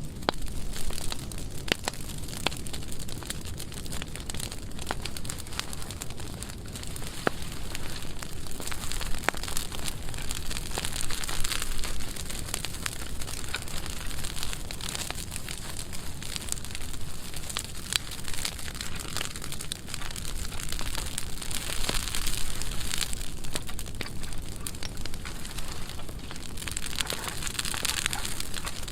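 A dry burn pile of pruned branches burning well, crackling with many sharp pops over a steady rush of flames.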